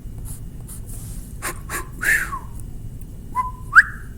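A person whistling a bird-call imitation. About two seconds in comes a whistle falling in pitch, and near the end a short level note that sweeps sharply upward, the loudest sound. Faint clicks run under it.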